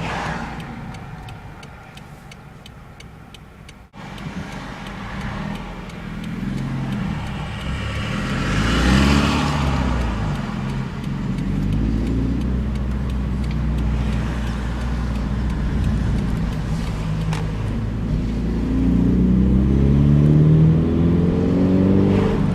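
Car engine through an aftermarket catback exhaust, heard with the windows open while driving: a low drone that eases off in the first few seconds, then builds again, and climbs in pitch over the last few seconds as the car accelerates.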